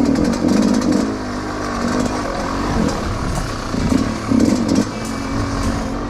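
Dirt bike engine revving up and down repeatedly, the pitch rising and falling over a few seconds, with light rattling.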